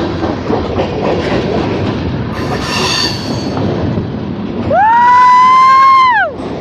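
A freight train passing close by, with a steady rumble of its cars and wheels on the rails and a brief high squeal about three seconds in. Near the end a loud, high-pitched wail rises, holds for about a second and a half, then falls away.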